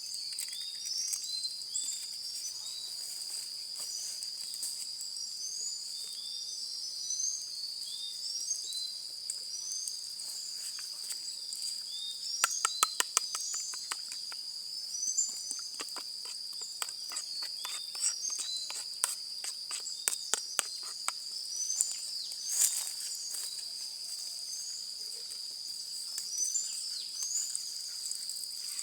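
A steady, high-pitched chorus of crickets and other insects, with short rising chirps repeating about once a second above it. From about twelve seconds in, a run of sharp clicks and cracks comes and goes for roughly ten seconds.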